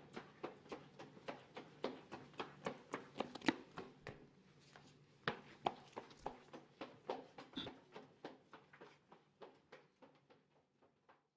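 Footsteps walking steadily on a hard hallway floor, about three to four quick heel-and-sole taps a second, growing fainter from about eight seconds in until they die away near the end as the walker moves off.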